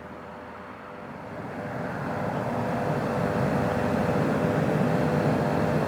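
Military aircraft engines growing louder over about two seconds as the plane approaches, then holding at a steady roar with a hum of several steady tones through it.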